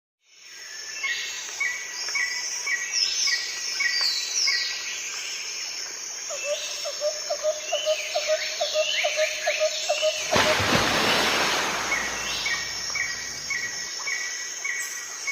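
Small birds chirping in quick repeated notes and trills, with a short burst of rushing noise about ten seconds in.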